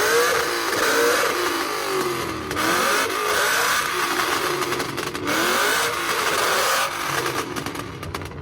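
A car engine being revved over and over in quick blips, its pitch rising and falling about once a second, then dropping back toward idle near the end.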